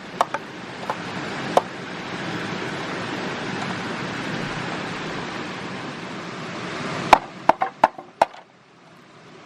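Sharp knocks on wood: a few scattered strikes in the first two seconds, then a quick run of about six near the end. Under them runs a steady rushing noise that swells through the middle and drops away after the last strike.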